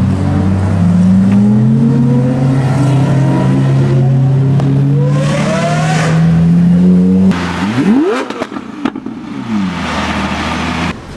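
Lamborghini Aventador's V12, on a decatted exhaust, under hard acceleration, its note climbing steadily for about seven seconds. After a sudden break, a quick rev rises sharply, then falls away with a burst of crackles and pops from the exhaust.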